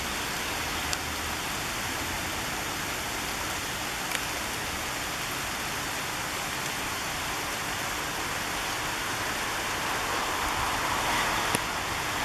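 Steady rain falling, an even hiss with a few sharp single drip ticks, growing a little louder near the end.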